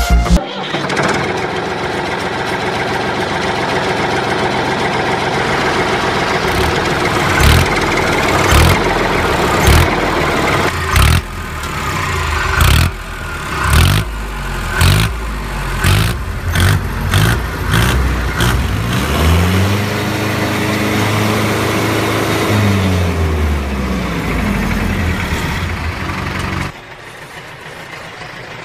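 Engine running and revving in repeated short surges, then a slow rise and fall in pitch, and it cuts off suddenly near the end.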